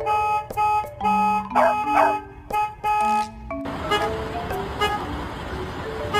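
Dog barking twice in quick succession, about a second and a half and two seconds in, over background music with steady pitched notes; a little past halfway a steady noise comes in under the music.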